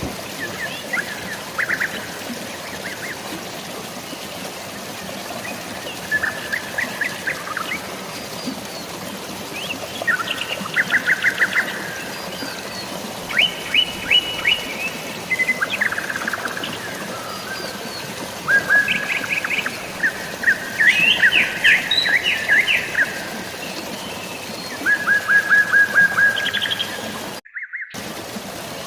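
Birds chirping in short runs of quick repeated notes over a steady hiss of rain and running water. The sound cuts out completely for a split second near the end.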